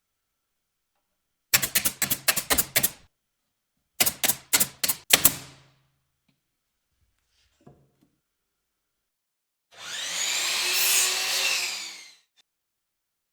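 Woodworking work sounds: two quick runs of sharp taps, about eight a second, then a loud whirring, rasping sound lasting about two and a half seconds.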